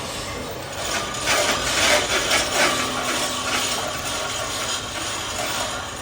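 Metalworking on a steel pipe: a run of irregular scraping strokes on metal, loudest in the first half, over a steady workshop machine hum.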